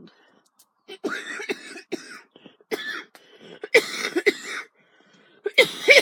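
A woman with a cold coughing repeatedly, in about five bouts, the last two loudest.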